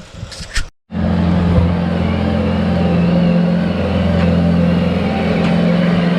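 After a short cut about a second in, a vehicle engine runs steadily at a constant, unchanging speed, loud and close.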